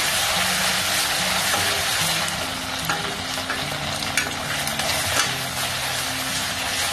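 Onions and ginger-garlic paste sizzling in hot oil in a stainless-steel kadhai, stirred with a steel spatula that scrapes and clicks against the pan a few times.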